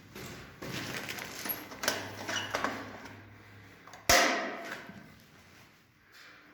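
Rustling and clattering of objects being handled, then one sharp knock about four seconds in that rings briefly.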